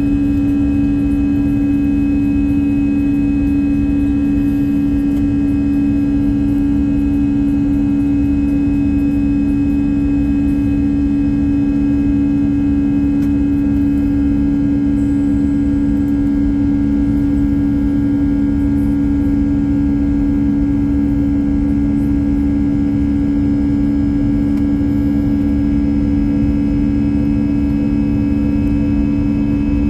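Steady drone inside an Airbus A321-200's cabin from its jet engines and aircraft systems, with two strong low hum tones over a rumble. Nothing rises or changes, as while the aircraft taxis rather than accelerates for takeoff.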